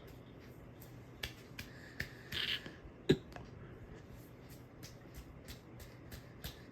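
Encon Crusader ceiling fan running at high speed: a steady low motor hum with a run of sharp clicks a few times a second, and a single louder knock about three seconds in.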